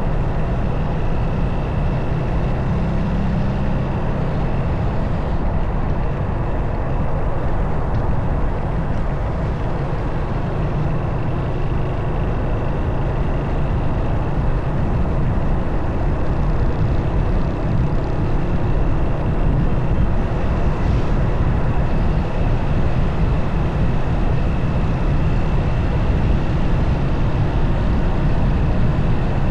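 Motorcycle on the move: engine running with wind and road noise, steady, with a faint high whine above it.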